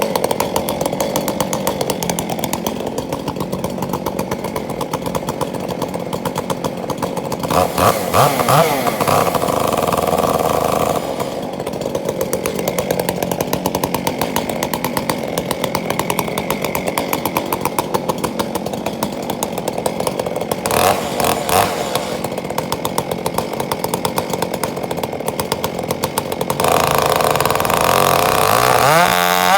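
Gas chainsaw running steadily at lower revs, opening up to full throttle three times: for a few seconds about a quarter of the way in, briefly around two-thirds in, and again near the end.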